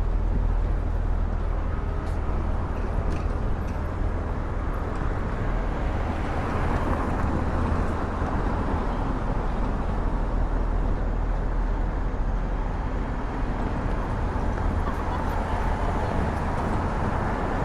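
City street ambience: a steady rumble of traffic with a general urban hum.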